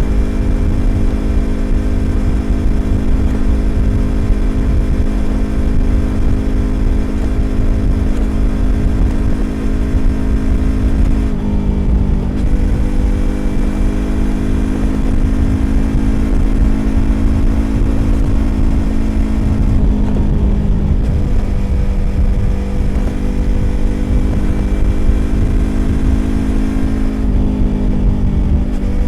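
Yamaha YZF-R25's parallel-twin engine through a Prunus aftermarket exhaust, running at a steady cruise with a low rumble underneath. Three times the throttle eases off briefly and the note shifts slightly.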